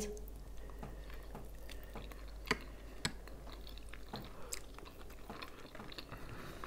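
Two people biting into and chewing boiled khinkali dumplings: quiet mouth sounds with a few sharp clicks scattered through.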